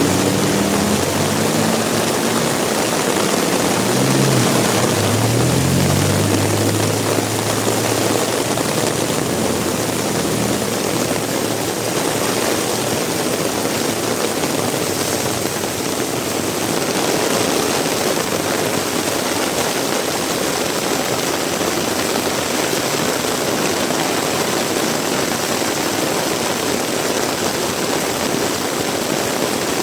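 Heavy rain falling in a steady hiss. A vehicle engine passes in the first several seconds, its pitch sliding up and down, and fades out about ten seconds in.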